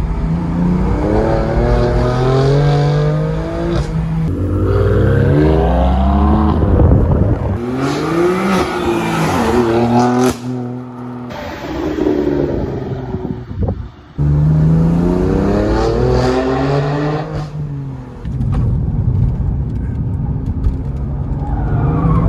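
BMW M2 CS's S55 twin-turbo straight-six through a Dinan X-pipe exhaust, revving hard several times, its pitch climbing and then dropping in turn, with short dips in level where the throttle lifts. The X-pipe gives the exhaust a deep, smooth note.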